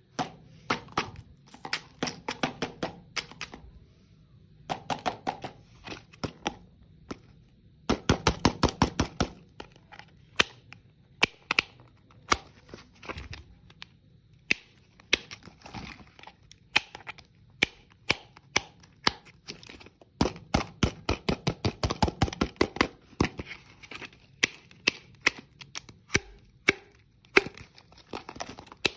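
Hard, crunchy candy crunching: runs of sharp, crisp cracks coming in quick bursts, densest about eight seconds in and again around twenty seconds in.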